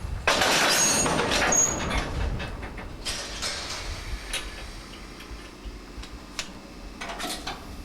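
Freight train being shunted in a station yard: a loud burst of hissing noise with two short high squeals, fading over a few seconds, then scattered clicks and knocks and another short hiss near the end.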